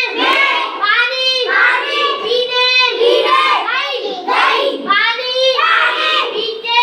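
A child's voice reciting in a sing-song chant, high-pitched and continuous.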